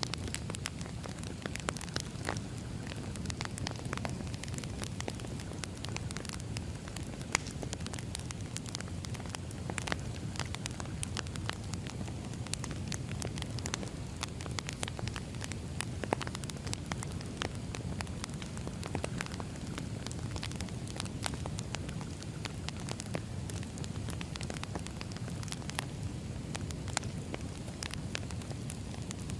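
Firewood burning, with frequent irregular crackles and pops over a steady low rumble of the flames.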